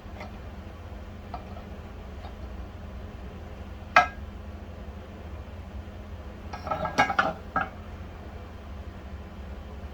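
Small metal parts or tools clinking and knocking on a hard surface: one sharp knock about four seconds in, then a quick cluster of clinks around seven seconds, over a steady low hum.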